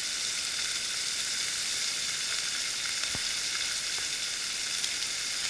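Olive oil with rehydrated mushrooms and sun-dried tomatoes sizzling steadily in a pot on a camp stove.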